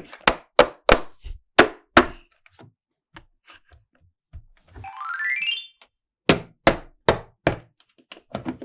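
Hard plastic toy pieces clicking and knocking together as they are handled, in quick runs of sharp taps. About halfway through, a short electronic tone rises in quick steps.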